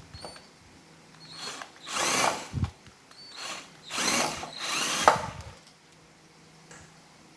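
Electric screwdriver running in about five short bursts, with a sharp click about five seconds in.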